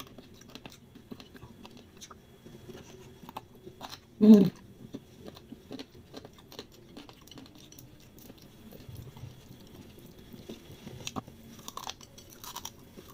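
Close-up chewing of fried noodles, with many small wet mouth clicks. There is one brief louder mouth sound about four seconds in.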